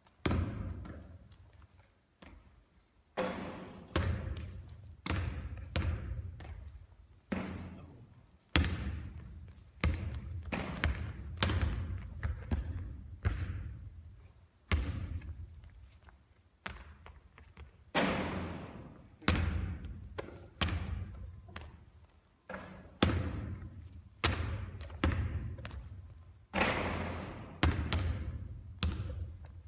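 A basketball thudding and bouncing repeatedly on a court during shooting practice. The sharp hits come irregularly, about one or two a second, and each dies away over a second or so.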